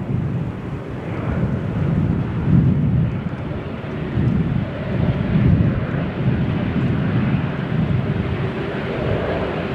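Four Rolls-Royce Trent 970 turbofans of an Airbus A380-841 at takeoff power: a deep, unsteady jet rumble that swells and fades every second or two.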